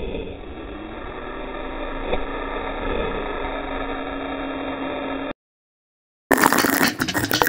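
A steady mechanical hum and noise that cuts off abruptly about five seconds in; after a second of silence, music starts.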